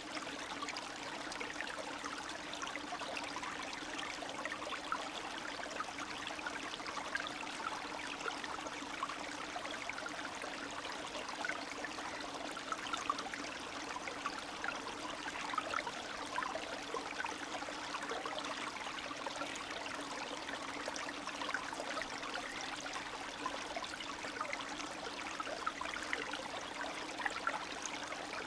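Spring stream running steadily, the water trickling and babbling with many small splashes.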